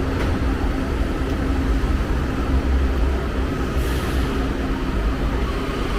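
Washington Metro subway train running, a steady low rumble with a steady whine over it and a brief hiss about four seconds in.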